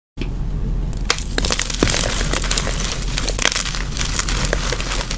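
Reformed dyed gym chalk being crushed, a dense, irregular run of crunchy cracks and crackles over a low, steady rumble.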